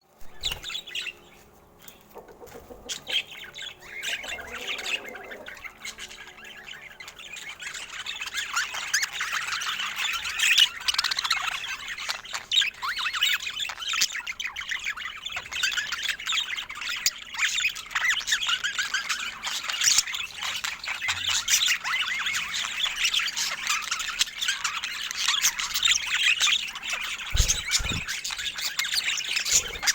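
A flock of small pet birds chirping and chattering, scattered calls at first, then a dense, continuous chorus from several seconds in. Two low thumps near the end.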